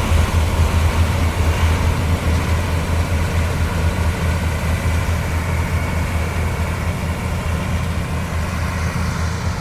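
Combine harvester engine running steadily: a deep, even hum with machinery noise over it.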